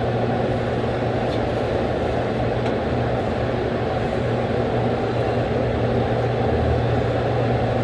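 Steady low mechanical hum under an even rushing noise, with a few faint clicks.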